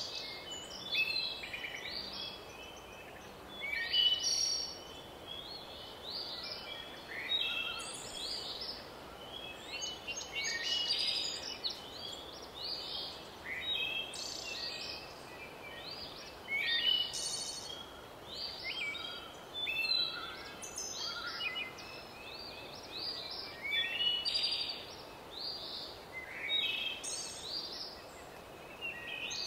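Small birds chirping and singing: many short calls and quick falling chirps, some in fast runs, over a faint steady hiss.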